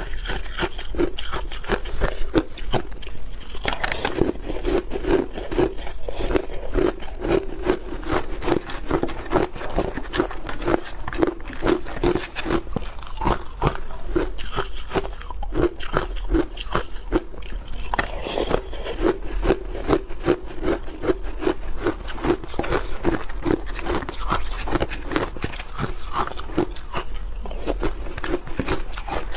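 Close-up crunching and chewing of block ice: dense cracking clicks over a steady chewing rhythm.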